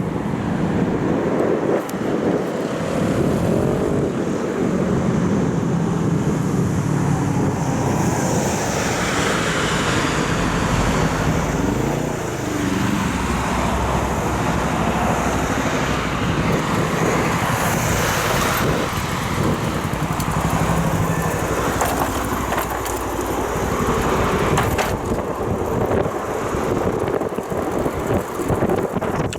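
Road traffic and rushing air heard from a moving bicycle, with a motor vehicle's steady hum through the middle stretch.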